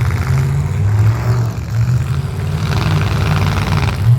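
Derby vehicles' engines running and revving, a loud, low, uneven engine drone that surges up and down.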